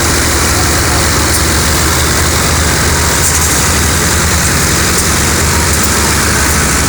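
Heavy engine running steadily at a low, even speed, loud and close.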